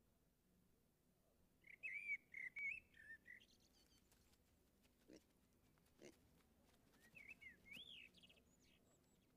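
Quiet outdoor hush with a songbird singing two short warbled phrases of quick rising and falling notes, one about two seconds in and another near the end. A couple of faint soft knocks fall in between.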